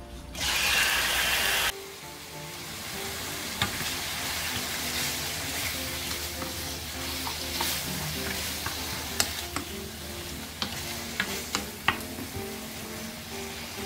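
Raw marinated chicken pieces hitting hot oil in a nonstick wok, a loud burst of sizzling for about a second near the start. Steady frying sizzle follows as a wooden spatula stirs the chicken, with sharp clicks of the spatula against the pan, several in quick succession in the second half.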